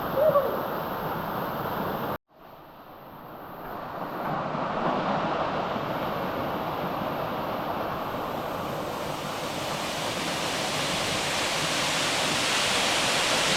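Rushing water of a canyon stream and waterfall, a steady noise with a brief louder sound right at the start. It cuts out abruptly about two seconds in, then comes back and grows louder and brighter toward the end.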